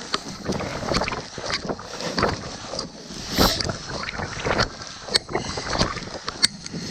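Blizzard wind gusting on the microphone, with crunching footsteps on snow-covered ice coming at about two a second, unevenly.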